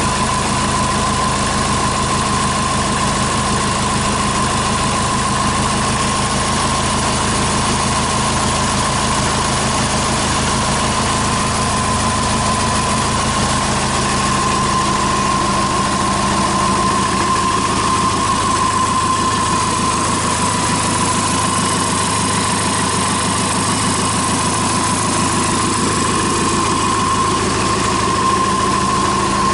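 Hyundai D4CB 2.5-litre four-cylinder common-rail turbodiesel idling steadily on a test run, with a steady high whine over the engine note.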